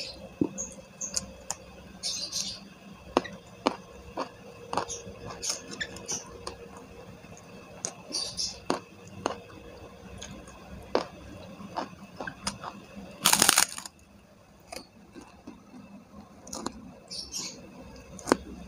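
A person eating close to the microphone: chewing with many small sharp mouth clicks and crunchy bites of fried chicken and raw vegetables, and one louder burst of noise about thirteen seconds in.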